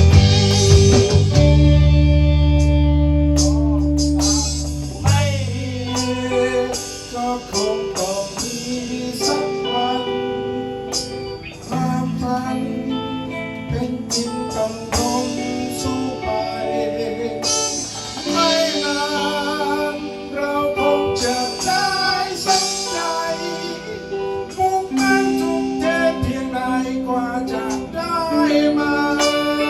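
Ensemble music played in harmony: plucked guitar over a deep bass line, under a melody that wavers with vibrato. The bass is heaviest in the first few seconds.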